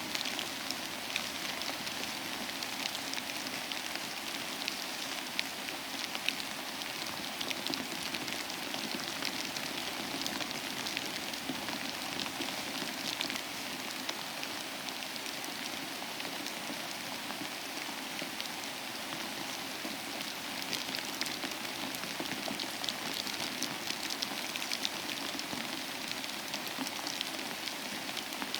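Steady rain falling, a dense even hiss with many close drop taps.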